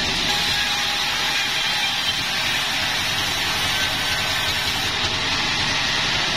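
Sawmill machinery running steadily, a constant mechanical noise with no breaks or changes.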